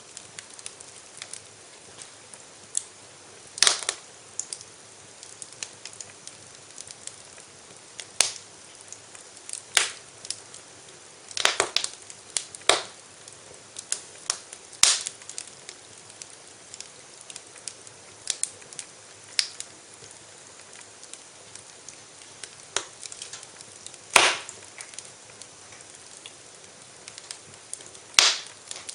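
Wood fire crackling in a fireplace: a steady soft hiss with irregular sharp pops and snaps, a few louder ones several seconds apart.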